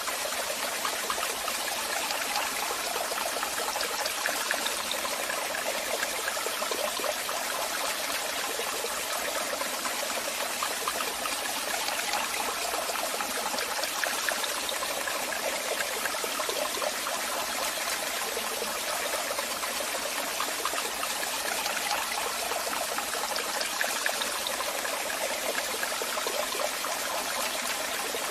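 Waterfall: a steady rush of falling and splashing water, with most of its sound in the mid and high range and little deep rumble.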